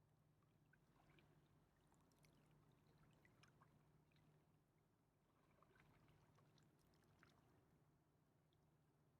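Very faint river water lapping and trickling, with scattered small ticks and a steady low hum underneath.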